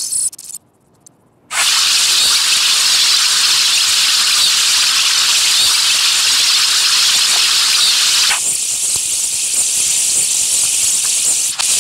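A loud, harsh, steady hiss of noise starts suddenly about a second and a half in. About eight seconds in it thins to a higher, lighter hiss, and it cuts off just before the end.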